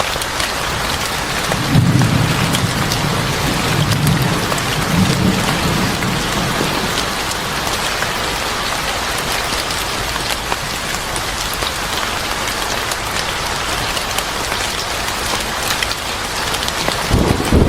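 Steady heavy rain hissing, with a low rolling rumble of thunder from about two to six seconds in and another rumble building near the end.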